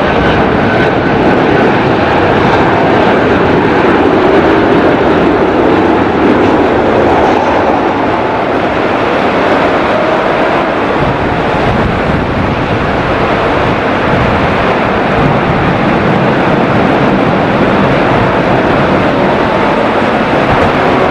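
Jet airliner's engines running, a loud steady rush of noise with faint whining tones in it.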